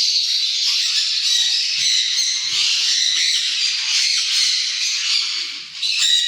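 A flock of small parrots in an aviary, sun conures and lovebirds, calling all at once in a dense, continuous din, with a brief lull near the end.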